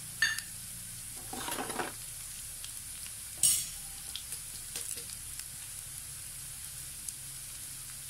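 Chopped shallots and garlic sizzling in hot oil in a non-stick pan, a steady hiss with a few sharp pops and clicks, the loudest about three and a half seconds in, and a brief scrape about a second and a half in.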